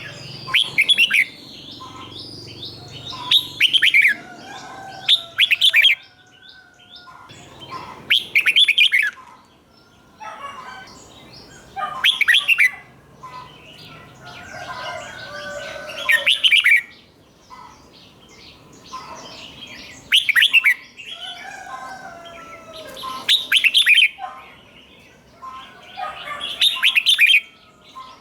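Red-whiskered bulbul singing: loud, short whistled phrases repeated every three to four seconds, many of them doubled, with softer chirping between the phrases.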